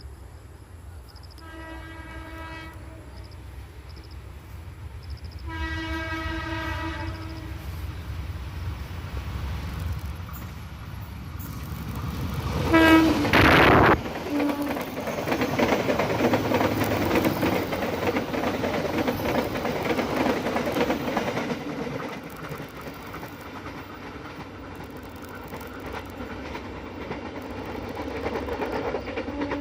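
Diesel locomotive passenger train sounding two long horn blasts as it approaches, then passing close with a short horn toot. The carriages' wheels rumble along the rails for several seconds after, then the sound fades as the train moves away.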